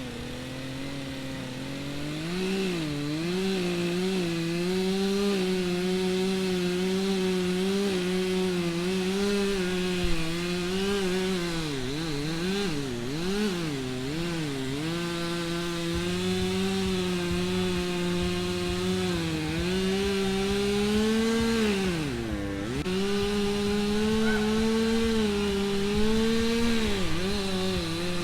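Stihl two-stroke chainsaw running at high revs as it cuts into a tree trunk. Its pitch dips and recovers several times, with a deep drop about 22 seconds in, as the throttle is eased and the saw loads up in the cut.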